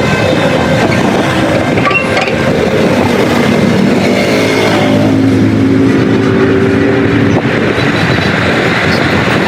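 Motor vehicle engine running loudly and steadily, with a few held tones rising out of it in the middle.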